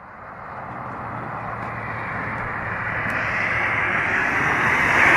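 A passing vehicle approaching: a steady rushing noise with a low hum that grows steadily louder, loudest near the end.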